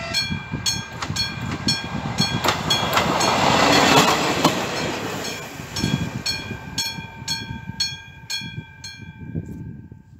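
Level crossing's AŽD 97 warning bell, a classic striking bell, ringing about two strokes a second while a train passes, its rush loudest about four seconds in. The bell stops near the end, once the train has cleared the crossing.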